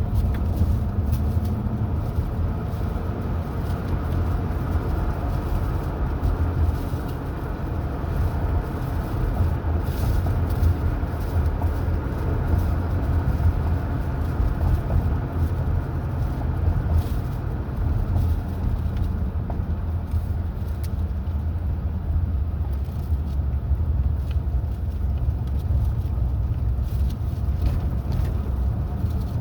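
A car travelling at road speed: a steady low rumble of engine and tyre noise, heard from inside the car.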